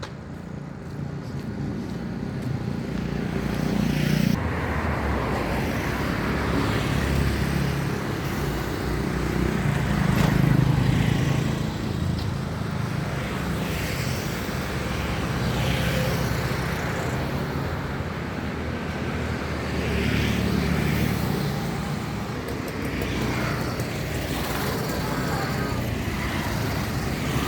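Road traffic passing continuously, with engine rumble from several vehicles swelling and fading every few seconds as they go by.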